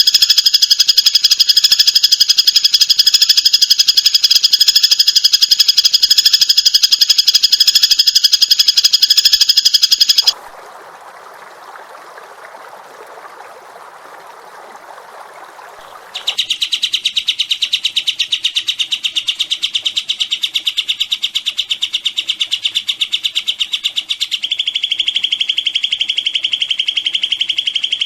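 Recorded songbird song in edited sections. First comes a very fast, high trill of evenly repeated notes, then a quieter, lower rasping stretch after a sudden cut. Another sudden cut brings in a second rapid, evenly pulsed trill a little lower in pitch, which shifts slightly near the end.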